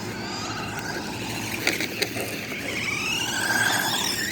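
Small electric motor of a toy RC car whining, its pitch rising and falling with the throttle. Two sharp knocks come about a second and a half to two seconds in.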